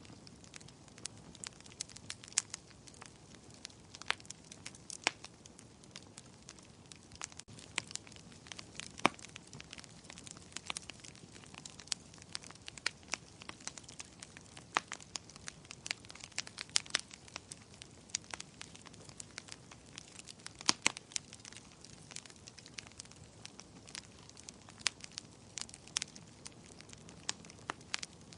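Fire burning in a fireplace: irregular sharp crackles and pops, a few a second, over a soft steady hiss.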